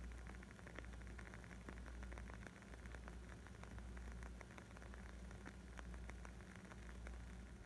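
Wood fire crackling: a dense scatter of small, sharp pops and snaps over a soft hiss, with a steady low rumble underneath.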